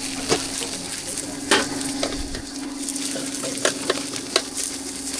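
Flatbread cakes frying on a hot griddle over a strong fire, sizzling steadily over a low hum, with a few sharp clicks of a utensil against the pan.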